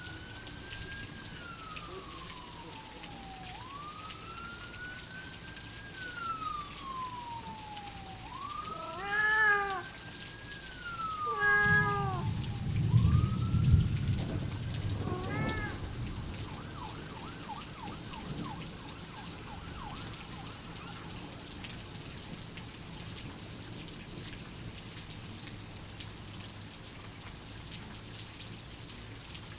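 Steady heavy rain, with a distant siren wailing up and down in long slow sweeps through the first half. A domestic cat meows a few times around the middle, and a low thunder rumble around 12 to 15 seconds in is the loudest thing.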